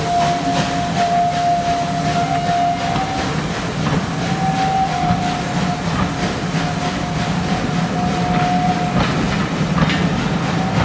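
A train on the move: a steady whine over a low rumble, with regular clicks of wheels running over rail joints. The whine eases about nine seconds in.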